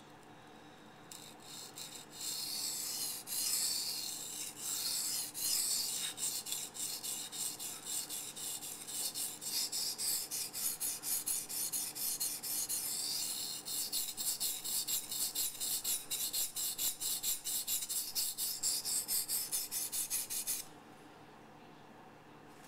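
Knife blade edge scraping across a 400-grit bamboo waterstone in repeated back-and-forth sharpening strokes, a gritty rasping that quickens to a steady two or three strokes a second and stops suddenly near the end. This is the 400-grit stage, working out the scratches left by the 180-grit stone.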